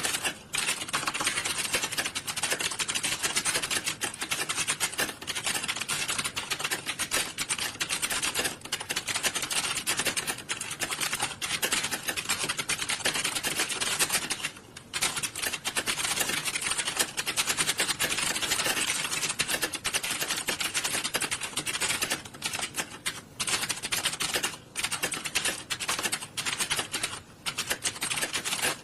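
Many computer keyboards being typed on at once, a dense, continuous clatter of overlapping keystrokes, with a brief lull about 15 seconds in.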